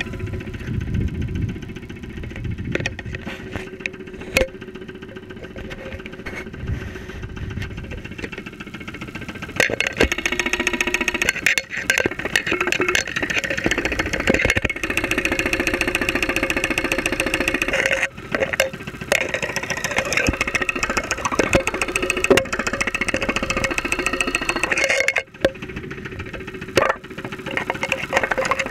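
2001 Saturn SL2's 1.9-litre four-cylinder engine running, picked up close through a stethoscope microphone, with a rapid, even knocking. The knock follows running the engine on very low oil. The sound gets louder about ten seconds in.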